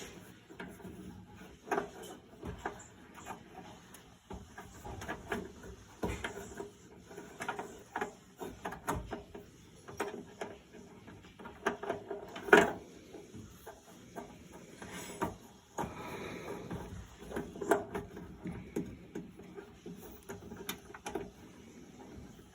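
Scattered light clicks and small knocks of a screw, tools and parts being handled while a replacement thermal fuse is fitted inside a dryer cabinet, with one sharper knock about halfway through.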